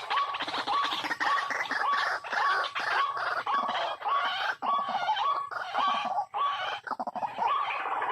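White-breasted waterhen's repeated croaking call, the same short note coming about twice a second without a break.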